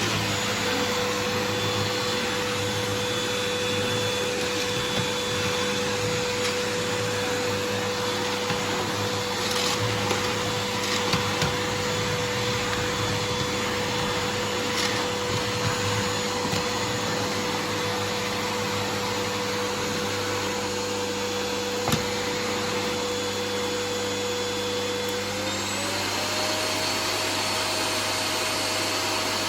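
Iris Ohyama vacuum cleaner running steadily, a motor whine over the rush of air. About 25 seconds in the whine rises to a higher pitch and stays there. There is a sharp knock a few seconds before that.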